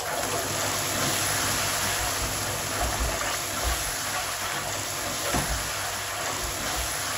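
Yogurt-and-onion masala sizzling steadily in a nonstick pan as a wooden spoon stirs it, with a few soft knocks of the spoon. The yogurt is being cooked down so that it releases its water.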